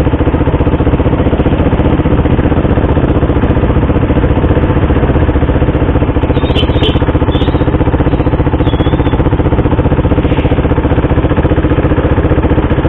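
KTM RC 390's single-cylinder engine running steadily, with no revving up or down.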